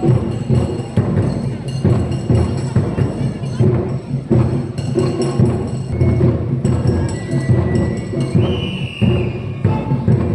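Music with heavy, repeated drumbeats, with a high thin tone sliding in near the end.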